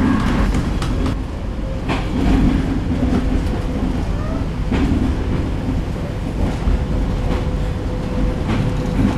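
Diesel-hauled passenger train running along the line: the coach's wheels on the rails give a steady low rumble, with a couple of sharp clacks about two and about five seconds in.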